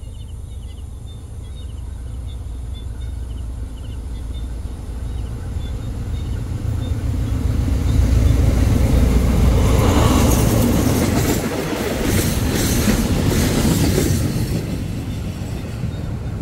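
Diesel train on the Thai southern line approaching and running past. A low engine rumble builds, then the wheels clatter over the rail joints for a few seconds past the middle before easing off a little near the end.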